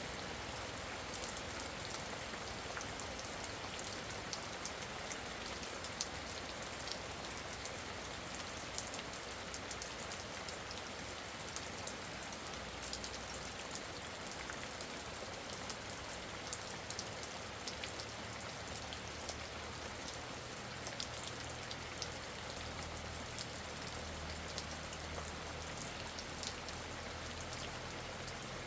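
Steady rain falling, with many individual drops ticking on a surface throughout.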